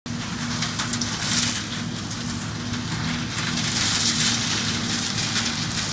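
An engine running steadily with a constant low hum, over a rustling hiss that swells and fades a few times.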